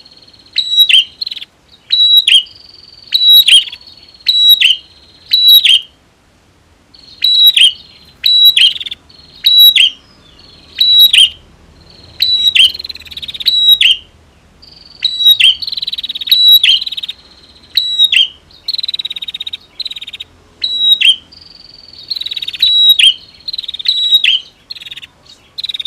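Prinias (prenjak) calling: loud, sharp, falling chirps repeated about one to two a second, with a short break about six seconds in. From about the middle on, a continuous buzzing trill runs beneath the chirps.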